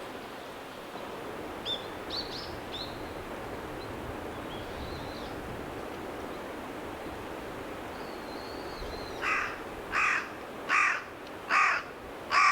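Wild birds calling: a few short, thin high chirps about two seconds in, then from about nine seconds in a loud, harsh call repeated five times, about one every three-quarters of a second.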